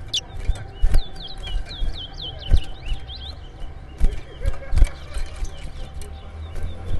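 Towa towa (chestnut-bellied seed finch) singing: quick runs of short, high, sweeping whistled notes, packed closely in the first half and sparser later, over scattered low thumps.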